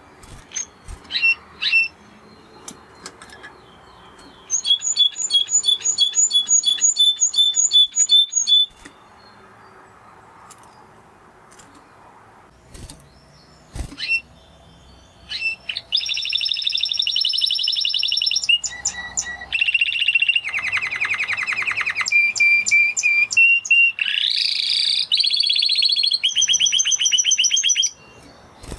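Canary singing: a few short chips, then a trill of evenly repeated notes for about four seconds. After a pause comes a long run of varied rolls and trills that stops just before the end.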